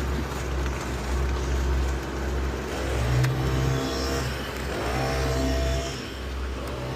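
Diesel engine of a truck at a concrete pour running steadily, revving up twice, about three and five seconds in, and holding the higher speed for a moment each time.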